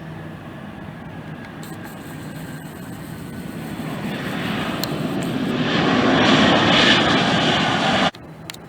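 Jet airliner's engines growing steadily louder as it passes close by, peaking about seven seconds in, then cut off abruptly.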